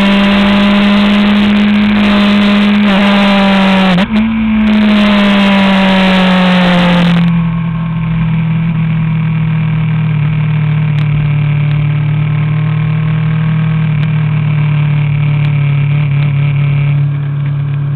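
Honda CBR1000RR's inline-four engine heard up close with wind noise, held at steady revs. About four seconds in the note briefly dips and jumps back up, then sags gently. About seven seconds in it turns quieter and settles to a lower steady note.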